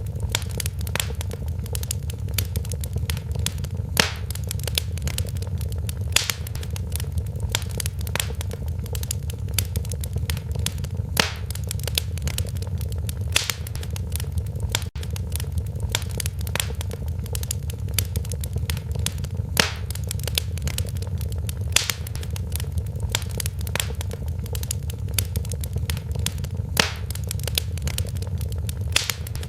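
Wood fire crackling in a fireplace: a steady low rumble under constant small snaps, with a sharper, louder pop every couple of seconds.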